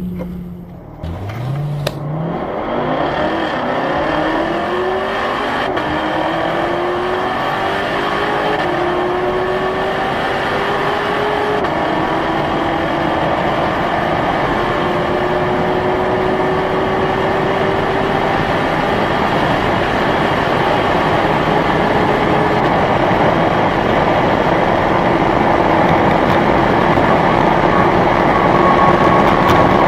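V8 performance car accelerating flat out from a standstill. The engine pitch climbs and falls back at each upshift, each gear lasting longer than the one before, while wind and road noise build steadily with speed.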